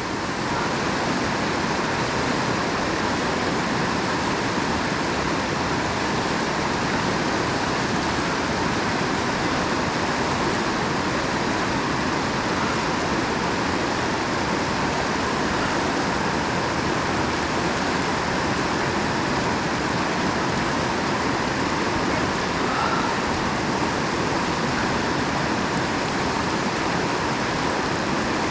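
Steady, unbroken rush of flowing water over rocks.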